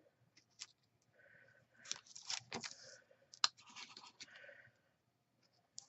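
Card stock and ribbon being handled on a craft desk: scattered light scratches, rustles and small clicks, busiest from about two seconds in.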